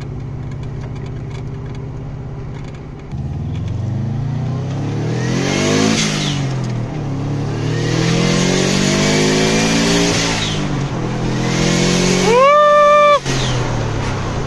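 Turbocharged car engine heard from inside the cabin, pulling hard through the gears. Its note climbs three times, dropping at each upshift, with a rushing hiss while it is under load. Near the end a loud, held high tone cuts off sharply.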